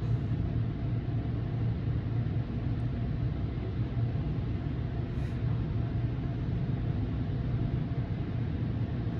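Steady low rumble of automatic car wash machinery heard from inside a car's closed cabin, with no sudden sounds.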